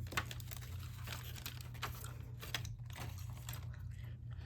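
Plastic kit bag crinkling and rustling as scrap balsa wood pieces are put into it, with small irregular clicks and taps over a steady low hum.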